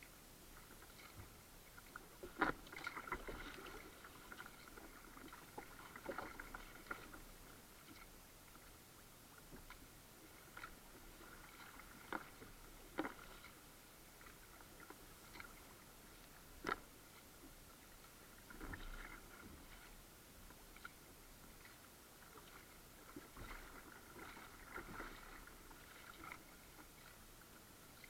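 Faint kayak paddling on a Rotomod Ysak: scattered paddle splashes and small sharp knocks, irregular and a few seconds apart, with short clusters of splashing a few seconds in, around the middle and near the end.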